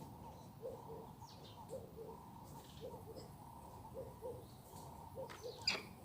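Faint bird cooing: soft pairs of short low notes, repeating about once a second.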